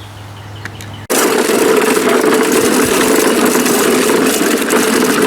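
An engine running steadily, cutting in abruptly about a second in.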